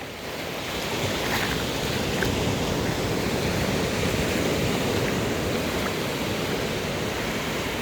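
Ocean surf: a steady rush of waves that swells up in the first second and then holds.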